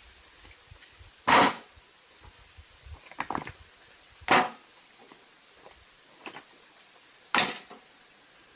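Three hard strikes of a hand tool on stone, about three seconds apart, each with a brief ringing tail, and lighter knocks and scrapes between them.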